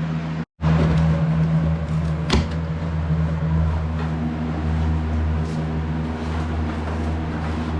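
Vacuum cleaner running steadily, sucking up demolition debris: a constant low hum under a rushing hiss, with one sharp knock a little over two seconds in.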